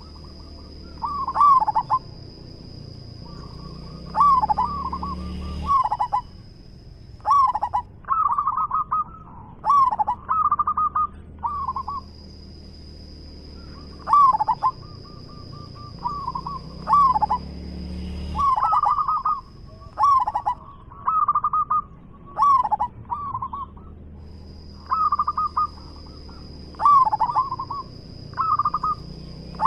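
Zebra dove (perkutut) cooing: short bouts of quick, stuttering coo notes, repeated every second or two with brief pauses between. A thin, steady high whine comes and goes behind it.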